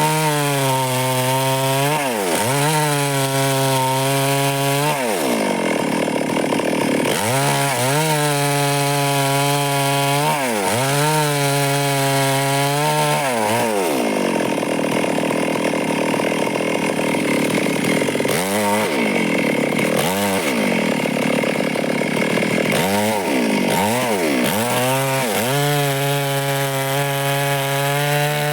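Stihl chainsaw cutting wood at high revs. The engine pitch drops and climbs back again and again as the throttle is eased and reopened or the chain bites into the wood. Around the middle the sound turns rougher and less steady for a few seconds, and several quicker dips follow.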